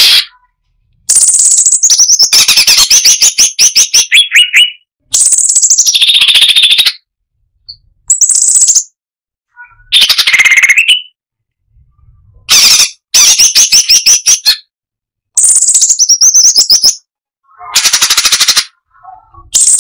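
Cucak cungkok (brown-breasted bulbul) singing loudly in rapid-fire phrases. About eight bursts of fast, rattling, high-pitched notes, each a second or two long, come one after another with short pauses between them.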